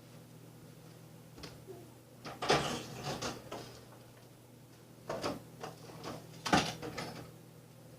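Cardboard box and tools being handled, with a few short scraping, rattling bursts in two clusters, the loudest near the end, over the steady hum of a window fan.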